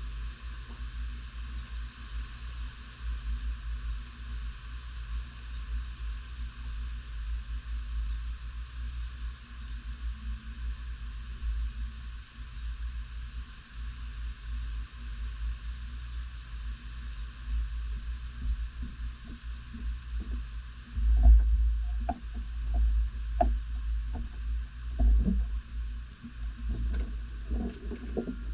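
Tropical-storm wind, gusting to about 46 mph, buffeting the microphone as a fluctuating low rumble over a steady hiss. The gusts grow stronger and louder about twenty seconds in.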